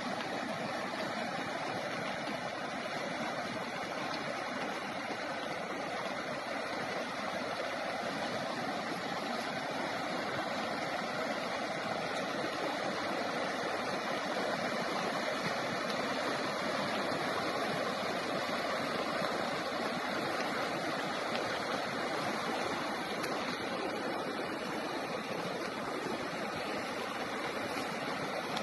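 A river in flood, its water rushing in a steady, unbroken wash of noise.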